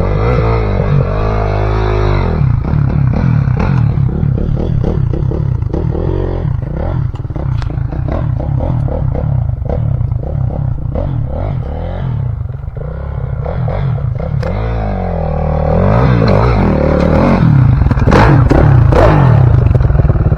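Off-road dirt bike engine revving up and down as the bike is ridden, with clattering and scraping from the bike over rough ground; the revs and level climb higher near the end.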